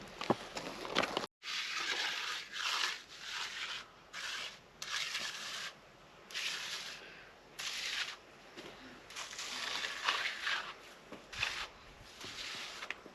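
Repeated rough scraping strokes, about a dozen, each half a second to a second long with short gaps between them.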